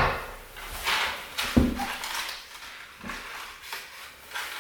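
A series of short knocks and scrapes, the loudest at the start and about a second and a half in.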